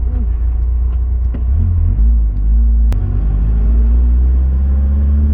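Car running with a heavy low rumble; a steady engine tone settles in about three seconds in, with a sharp click just before it.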